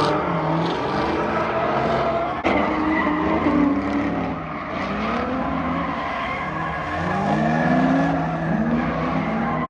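Car engine revving hard through repeated rising and falling sweeps with tyres squealing as the car slides, with an abrupt change in the sound about two and a half seconds in.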